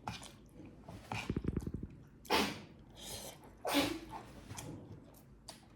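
A short, low buzzy snort, then two sharp breathy sniffs or puffs through the nose, about a second and a half apart.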